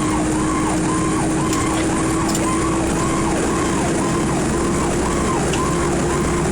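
Fire engine siren yelping, sweeping up and down about twice a second, over the truck's steady engine and road noise. A drone under the siren rises slowly in pitch as the truck speeds up.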